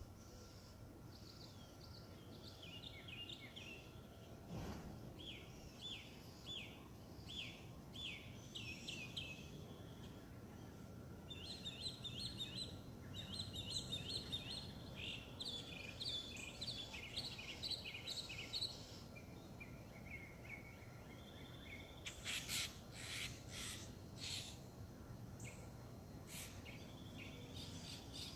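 Songbirds singing outdoors, with runs of quick repeated chirping notes, over a steady low background noise. A few short, sharp sounds come about three-quarters of the way through.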